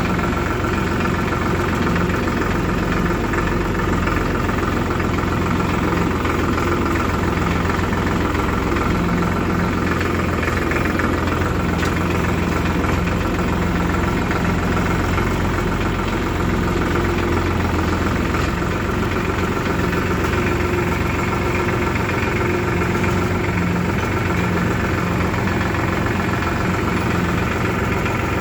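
Diesel engine running steadily near idle, at an even speed throughout.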